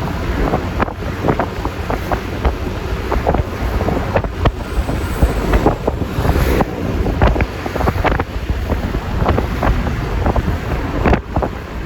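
Road ride on a Yamaha Lexi LX 155 S scooter heard through a phone's microphone: steady wind rush and road rumble, with frequent sharp crackles where gusts buffet the microphone.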